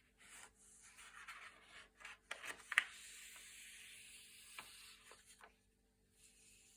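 Thick glossy paper pages being turned by hand: soft sliding rubs, then a quick run of crisp crackles as a page flips over about two to three seconds in, and a few light ticks near the end as it settles.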